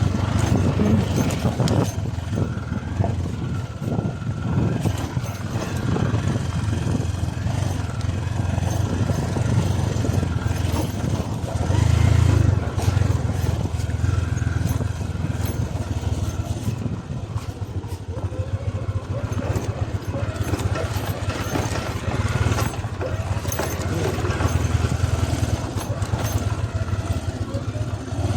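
Motorcycle engine running steadily as the bike is ridden, swelling briefly about halfway through.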